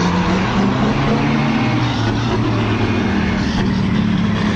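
Heavy dump truck's diesel engine running at a fairly steady pitch.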